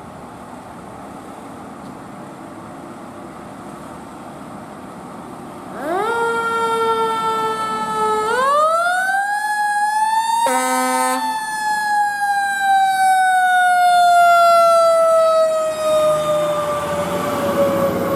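Fire engine siren winding up to a rising whine about six seconds in, climbing higher near the middle, then slowly winding down in pitch. A short air horn blast sounds at about the halfway point.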